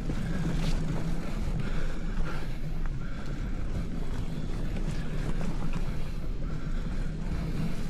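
Steady low rumble of wind buffeting the microphone during a bicycle ride, with a few faint clicks.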